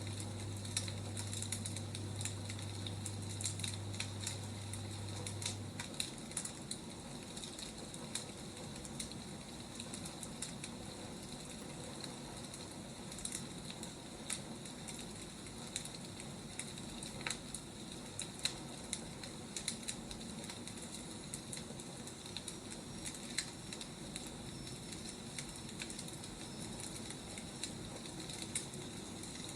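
Wood fire crackling: a steady hiss with irregular sharp pops and snaps. A low hum underneath stops about six seconds in.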